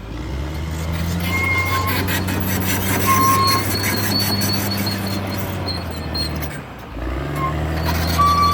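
CAT D6R XL crawler bulldozer working: its diesel engine runs steadily under load over the clatter of the steel tracks, with several short high-pitched squeals. The engine sound drops away briefly about two-thirds of the way through, then picks up again.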